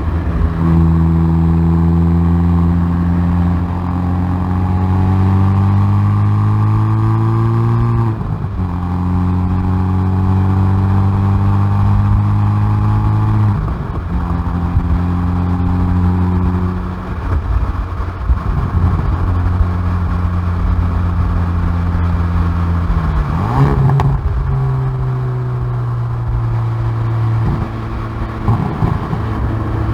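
Hyundai i30N Performance's turbocharged 2.0-litre four-cylinder, heard at the exhaust, accelerating hard on track. It climbs in pitch through the gears, with sharp upshifts near the start and about 8 and 13 seconds in. It then comes off the throttle with quick downshift rev blips before pulling hard again near the end.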